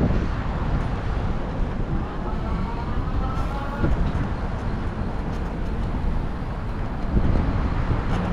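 Steady low rumble of wind and road noise on the microphone of a moving bike, with a faint rising pitched sound around the middle.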